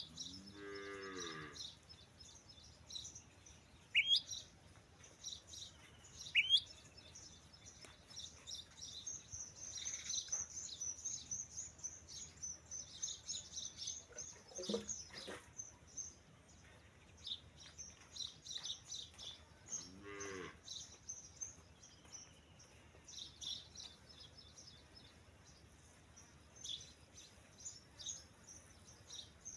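A cow mooing in short calls, one near the start and another about twenty seconds in, over steady high chirping of birds.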